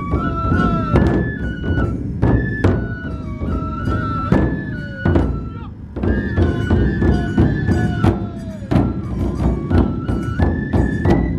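Japanese festival drum-and-flute music: large taiko drums beaten in a driving rhythm of frequent strikes under a bamboo flute melody of held, stepping notes, the music of the Matsue do-gyoretsu drum procession.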